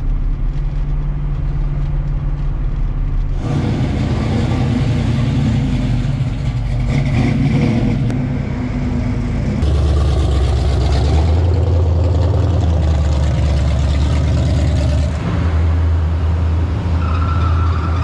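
Car engines running steadily, the low engine note changing abruptly about three times.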